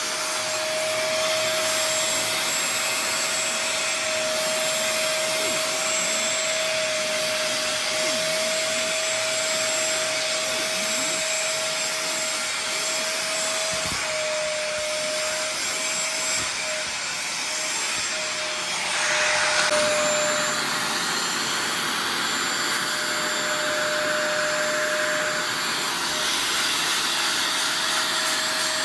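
Vacuum motor of a carpet and upholstery cleaning machine running steadily with a constant whine over a rush of suction. About two-thirds of the way through, the sound turns briefly louder and hissier.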